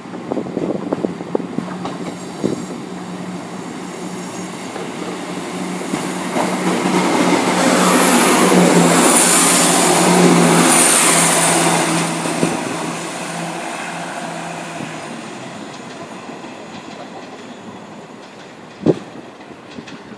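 Multiple-unit passenger train passing close along a station platform: wheel clatter and a steady hum build to a loud rush as it goes by about halfway through, then fade away. A short sharp knock near the end.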